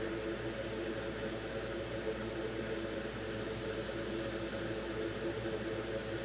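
Steady hiss and hum of a hot air rework station's blower, set to low airflow, heating solder to seat a new fuse on a laptop board.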